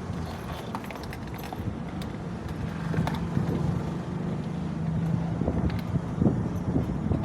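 A vehicle engine running with a steady hum over outdoor street noise, with scattered short clicks and knocks.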